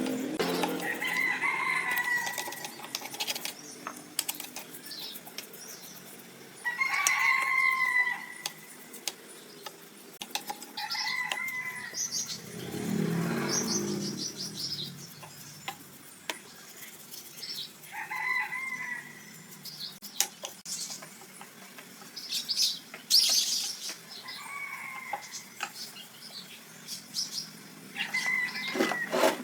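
Birds calling every few seconds, each call a clear tone of about a second, with small high chirps between them. Scattered faint clicks and a brief low rumble about halfway through.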